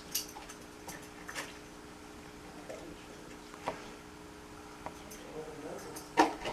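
A few scattered light clicks and taps over a steady low hum, with one louder knock about six seconds in.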